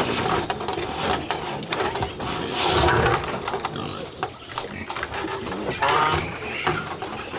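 Farm animal calls, with one call about six seconds in, among a clatter of small knocks and a brief noisy rustle near the middle.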